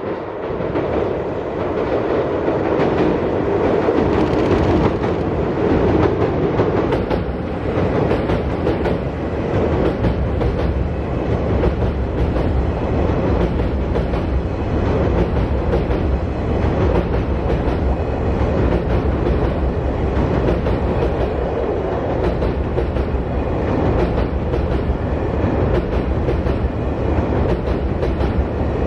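Sagawa Express chartered freight train passing close by. Its wheels clatter steadily over the rail joints, louder over the first few seconds and then holding even as the long train goes by.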